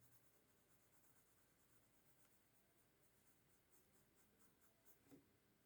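Very faint pencil strokes scratching on paper as a sketch is shaded, with one slightly louder tap or scrape about five seconds in.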